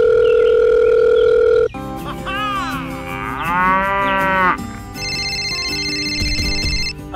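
Edited-in sound effects: a loud steady electronic phone tone for under two seconds, then a cow mooing with a rising and falling pitch, then a high electronic trill near the end.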